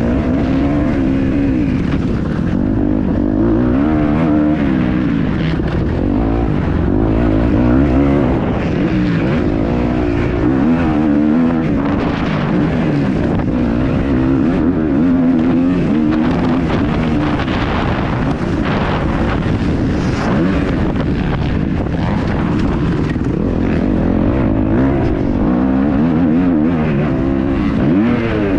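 Kawasaki KX250F four-stroke single-cylinder motocross engine under hard riding. Its pitch climbs and drops again and again as the throttle is worked and the gears change.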